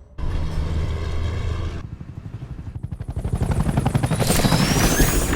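Helicopter rotor chopping in a rapid, even beat that grows steadily louder, after a brief steady low drone. Near the end a rising whine joins it.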